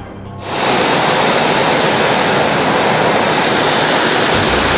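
Torrential rain and rushing floodwater: a steady, loud rush of water that swells in about half a second in. A low hum joins near the end.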